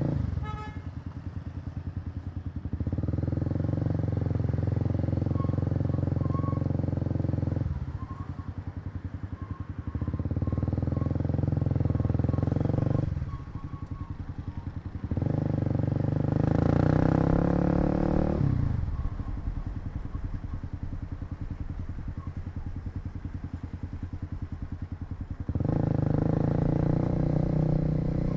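Kawasaki KLX250's single-cylinder four-stroke engine on the move, pulled under throttle in four spells with a quieter, lower engine note between them as the throttle is eased off. In the third spell the engine note climbs in pitch as the bike accelerates.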